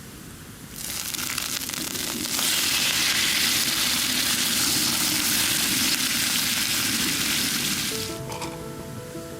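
Food sizzling in a hot pan: a steady frying hiss that builds about a second in, holds, then dies down near the end as music begins.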